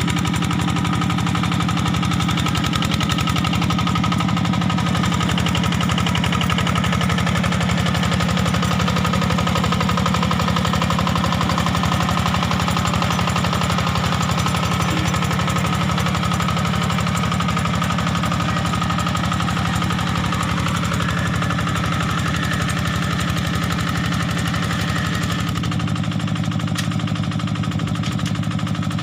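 Yanmar tractor's diesel engine running steadily with a rapid, even chugging; its note shifts slightly near the end.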